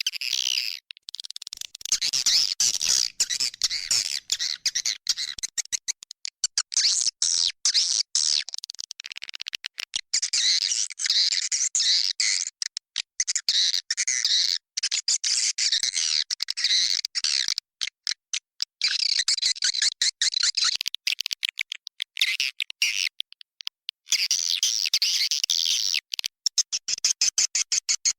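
Recorded calls of edible-nest swiftlets: rapid, dense twittering chirps in bursts separated by short gaps. This is a swiftlet call track, the 'inap' (roosting) call played to lure swiftlets into a nesting house.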